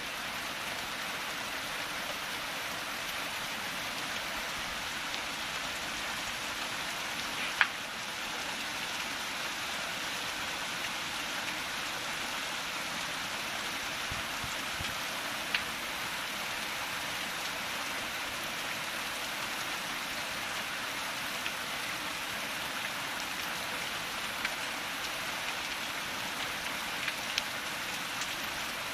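Steady rain falling, an even hiss, with a few louder single drips landing, the sharpest about eight seconds in and a few more near the end.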